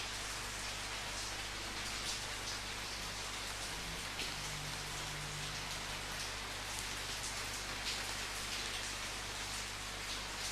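Steady rain falling, a continuous hiss with soft patter of drops on a surface.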